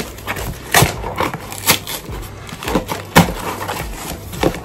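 Packaging being handled and opened by hand: several sharp cracks and crunches with rustling between, the loudest about three seconds in.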